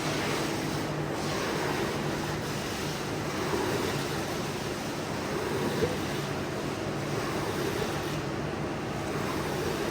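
Steady rush of spraying water over a machine's low, even hum, as in jet-washing a carpet.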